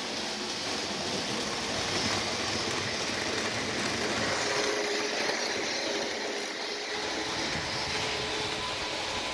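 Train running by: a steady rolling noise with a few faint steady tones on top, swelling slightly in the middle.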